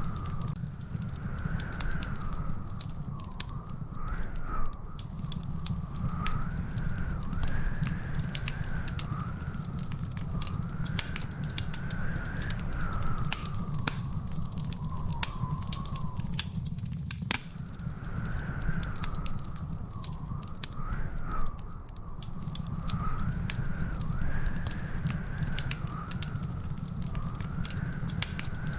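Wood fire crackling in a fireplace: frequent irregular sharp pops and snaps over a steady low rumble of flame. A continuous wavering whistle-like tone runs through it.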